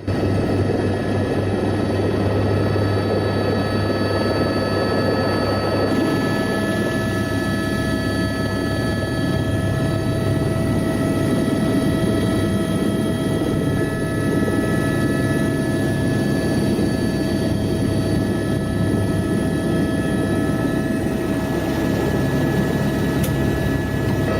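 Helicopter in flight: a steady, unchanging drone of turbine and rotor noise with several constant whining tones over it.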